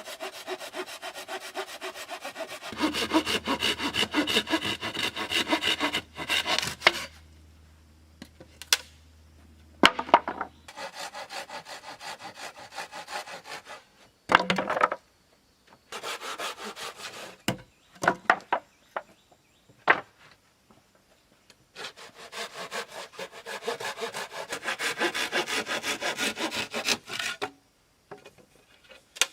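Hand saw cutting wood in rapid back-and-forth strokes, in several bouts with short pauses and a few sharp knocks of wood between them.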